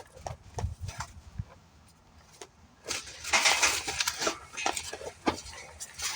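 Motorcycle packaging being handled and pulled away: scattered clicks and knocks, then from about three seconds in a steady crinkling rustle of wrapping material.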